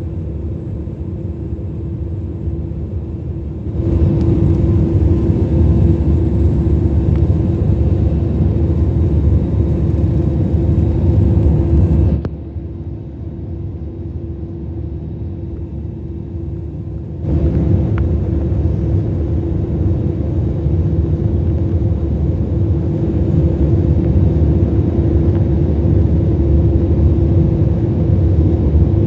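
Jet airliner cabin noise in flight: a steady deep rumble with a constant hum. It steps abruptly louder about four seconds in, drops back about twelve seconds in, and jumps louder again about seventeen seconds in.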